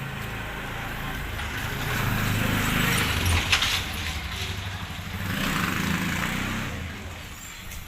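A motor vehicle's engine running with a low hum and road noise that swells twice, as if passing close by.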